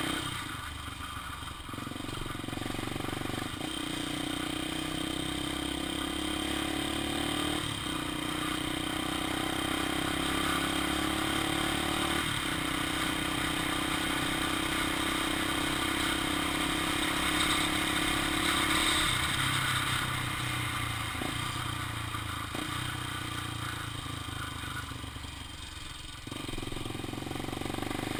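Honda XR 250 Tornado's single-cylinder four-stroke engine running while the bike is ridden. Its steady note breaks off and picks up again several times.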